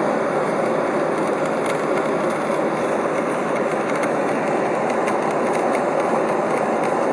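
Airliner cabin noise in flight: a steady, even rush of engine and airflow noise with no change.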